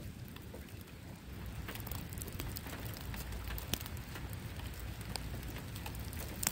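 Raindrops pattering as scattered sharp ticks, growing denser about two seconds in, over a low rumble.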